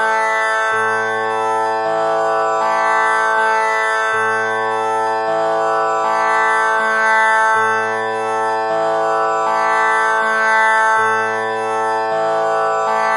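Tanpura drone tuned to A (6 kattai), its strings plucked in turn in a steady repeating cycle of about three and a half seconds, each pluck ringing into the next.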